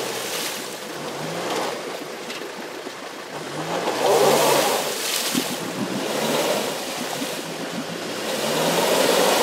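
Off-road vehicle's engine revving in repeated surges, every two to three seconds, with water churning around it. The vehicle is stuck in water and struggling to move.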